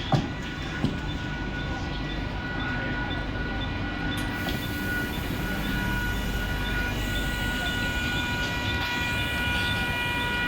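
Mumbai suburban electric local train running past the platform: steady rumble with a whine of several steady high tones, and more tones joining in the second half. Two sharp knocks come within the first second.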